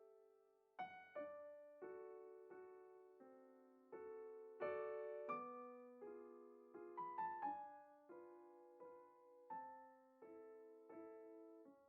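Quiet background piano music: slow single notes and chords, each struck and left to fade.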